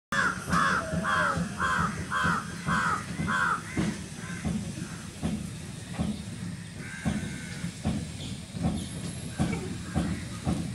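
A crow cawing six times in quick succession, then stopping, over a low rumble with irregular knocks.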